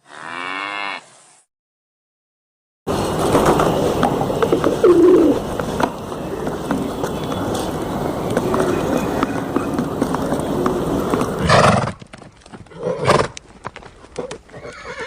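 A run of farm animal sounds: a short animal call of about a second, then a long busy stretch of noisy animal sound, then horse sounds with hoof clip-clops and calls near the end.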